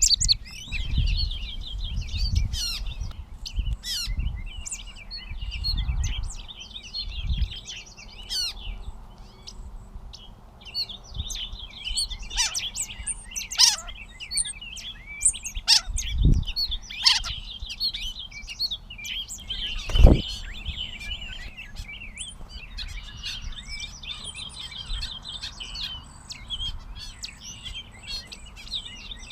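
Gray catbird singing a long, jumbled run of short, varied notes in stretches with brief pauses. A few low thumps are heard, the loudest about two-thirds of the way through.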